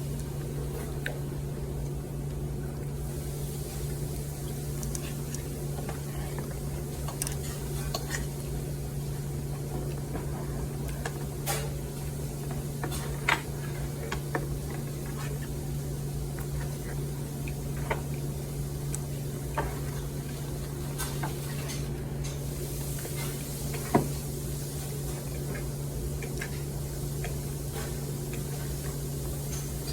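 Scattered clicks and scrapes of cutlery against dishes and food containers during eating, over a steady low hum.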